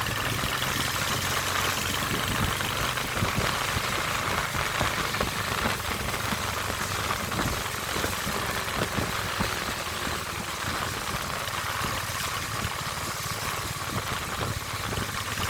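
Royal Enfield Hunter 350's single-cylinder engine running steadily, its low hum under a constant noisy hiss.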